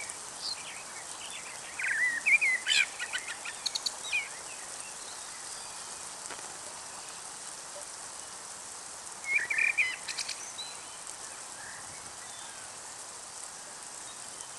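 Songbirds singing in two short bouts of chirps and trills, about two seconds in and again near ten seconds, over a steady background hiss.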